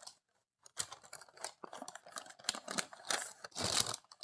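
A metal fork scraping and tapping as it works a raw chicken breast loose from parchment paper, with the paper crinkling: a run of small, irregular clicks and scrapes.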